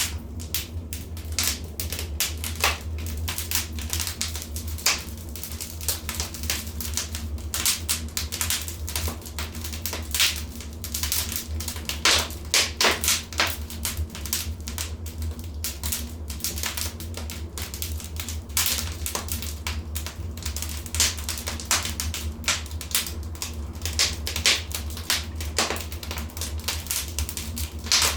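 Fire in a fireplace crackling, with irregular sharp pops and snaps, some in quick clusters, over a steady low rumble.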